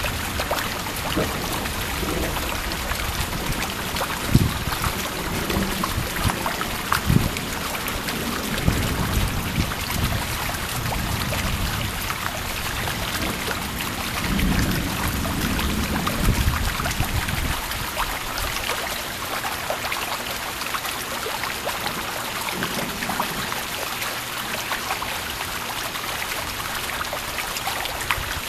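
Steady heavy rain from a thunderstorm, with low rumbling during the first half that dies away after about seventeen seconds.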